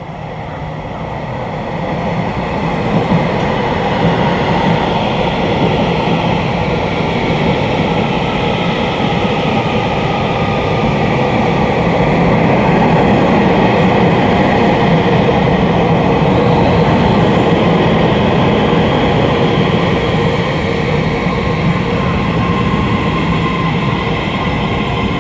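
Electric passenger train running along a station platform: a loud, steady rumble of wheels and motors, with a faint whine sliding slowly in pitch. It swells over the first few seconds, then holds.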